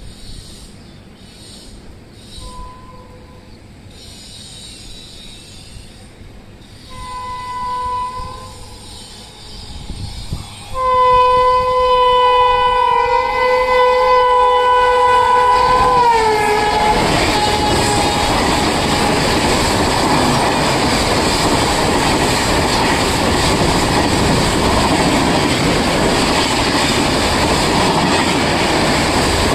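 Indian Railways WAP7 electric locomotive's air horn as the train approaches at about 130 km/h: a faint short blast, a stronger one about seven seconds in, then a long blast whose pitch drops as the locomotive passes. It is followed by the loud steady din of the passenger coaches rushing through at speed.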